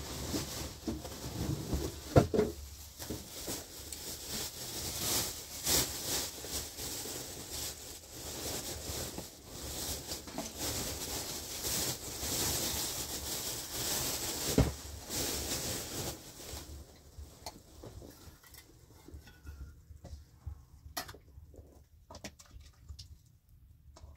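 Cloth and a plastic bag rustling as they are handled and folded, with a couple of louder knocks. The rustling dies down after about sixteen seconds, leaving only a few light clicks.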